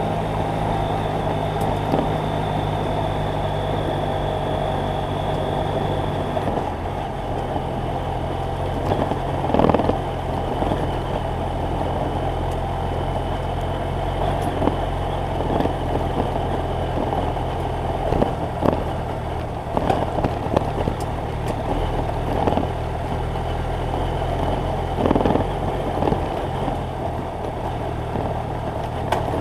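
BMW F800GS Adventure's parallel-twin engine running steadily under way, its note stepping down to a lower pitch about six seconds in, with scattered short knocks.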